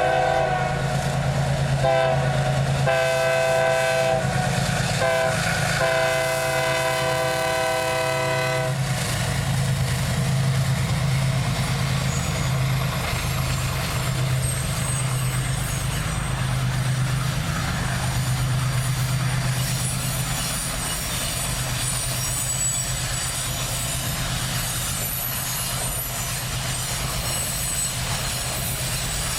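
Diesel freight locomotive sounding its multi-tone air horn in several blasts, the last one long, over the first nine seconds, then the locomotive running steadily past with its low engine rumble. Faint high-pitched wheel squeal comes in during the second half.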